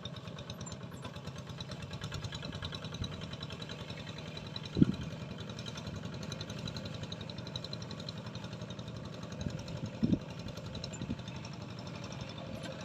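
An engine running steadily at an even idle-like pace, with a couple of short dull thumps about five and ten seconds in.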